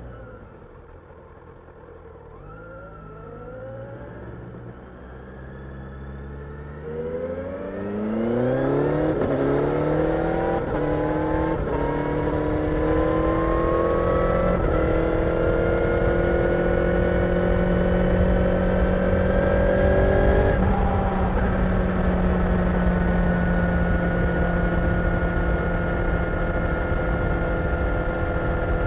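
Kawasaki Ninja 1000SX's inline-four engine, quiet and low at first, then accelerating from about seven seconds in with a rising pitch. It settles into a steady cruise, with a brief drop in pitch about two-thirds of the way through, like an upshift.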